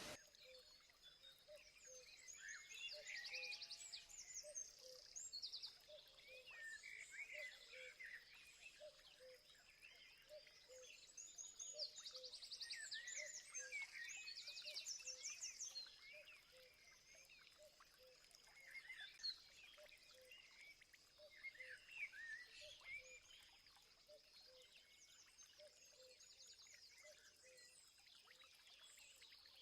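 Wild birds singing in several bouts of quick chirps and trills, with a steady high-pitched whine and a low short note repeating about one and a half times a second beneath them. The whole is faint.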